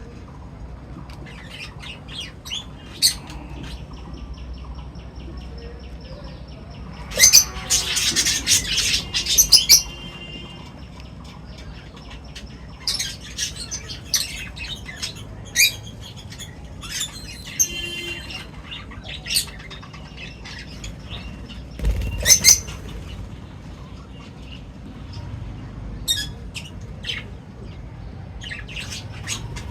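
Birds chirping and calling in short, repeated bursts, with a dense flurry of loud overlapping calls about a quarter of the way in and a few longer held notes.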